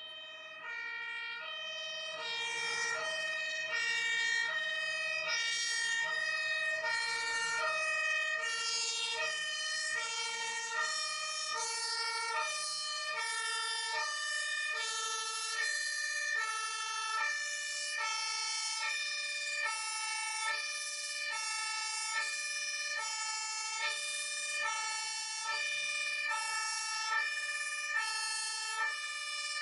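Two-tone hi-lo emergency vehicle siren, alternating evenly between a high and a low note about once a second. It swells in over the first couple of seconds, then holds steady.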